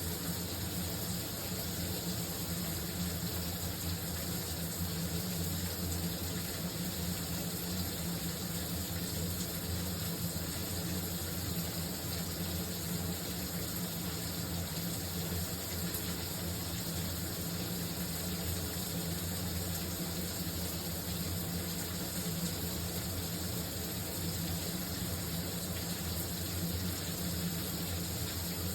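Shower running steadily, an even spray of water with a low rumble underneath.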